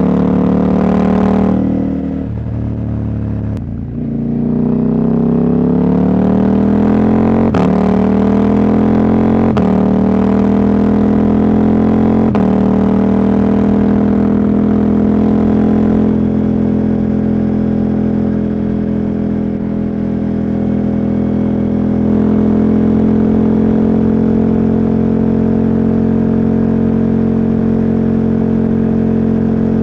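Husqvarna Norden 901's parallel-twin engine, with its catalytic converter removed, under way. The throttle eases off briefly, then the bike accelerates up through three gear changes, each a short break where the pitch drops, before settling into a steady cruise.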